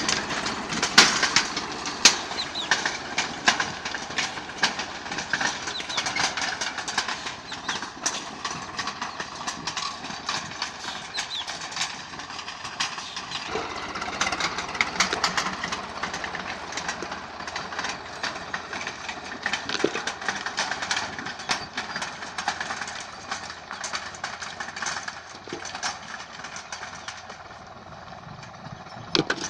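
Swaraj 744 FE tractor's three-cylinder diesel running with a rotary tiller, with many sharp clatters and knocks over the engine. The lower part of the sound fills out about halfway through.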